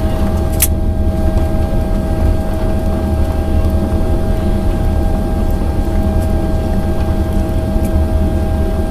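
Cabin noise inside a Boeing 767-400ER on the ground after landing. A steady low rumble runs with a constant engine hum at low power, and a single sharp click comes about half a second in.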